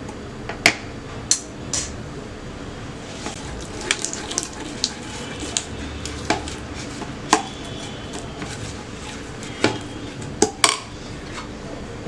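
A spoon stirring cookie dough ingredients (butter and salt) in a bowl, with irregular light clicks and taps of the spoon against the bowl.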